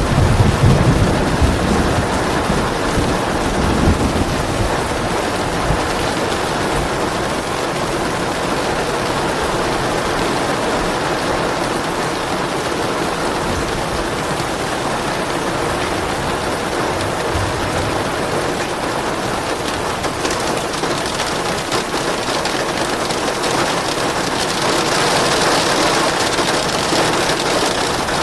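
Steady rain falling, with soft low rumbles of thunder in the first few seconds. The rain turns a little heavier and brighter near the end.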